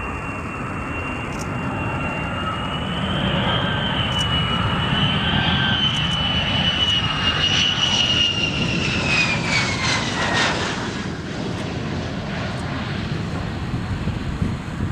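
F-35B Lightning II's Pratt & Whitney F135 jet engine running: a high whine over a broad rumble. The whine climbs slightly, then drops in pitch and fades about ten seconds in, leaving the rumble.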